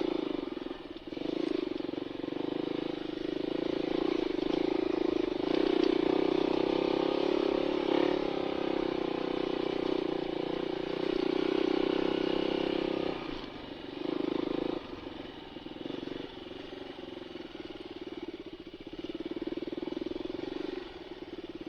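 Dirt bike engine running under load while climbing a rocky hill. It is strong and fairly steady, then falls off about thirteen seconds in and carries on lower, rising and dropping with the throttle.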